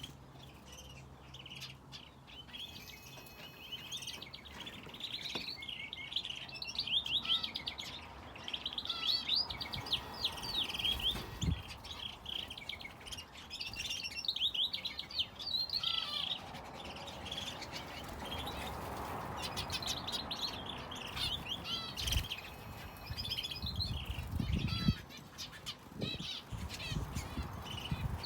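Small caged aviary birds, finches and a canary, chirping and twittering over one another, with quick trilled runs that are busiest in the first half. A few dull low knocks come in the second half.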